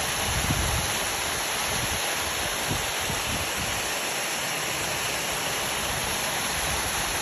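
Waterfall on a creek pouring steadily into a pool, a dense, even rush of falling water.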